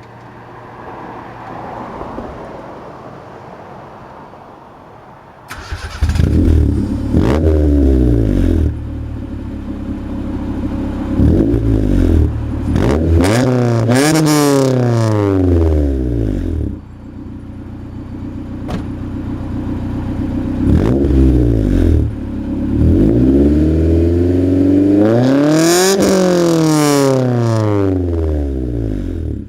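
Honda CRX engine and exhaust, quiet at first. About five seconds in the engine comes in loud and is revved repeatedly, its pitch climbing and falling in several blips, the longest near the end.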